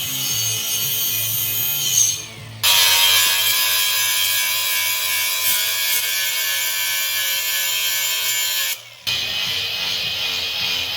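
A power tool cutting steel, a steady high-pitched grinding hiss that starts abruptly about two and a half seconds in and cuts off about nine seconds in, with quieter cutting noise before it. Background music plays underneath.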